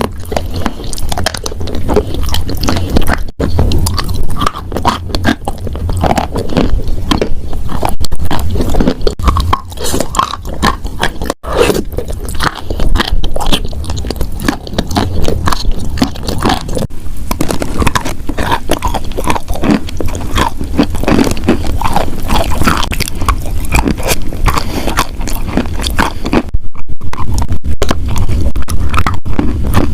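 Wet chalk being bitten and chewed close to the microphone: a dense, continuous run of crackly crunches.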